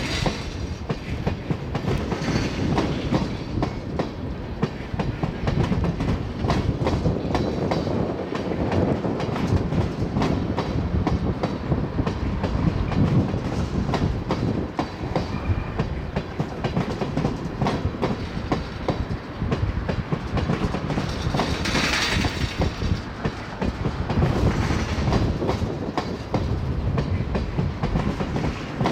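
Long freight train of oil tank cars rolling past, a steady rumble with the wheels clicking rapidly over rail joints. A brief brighter, hissing surge comes about three-quarters of the way through.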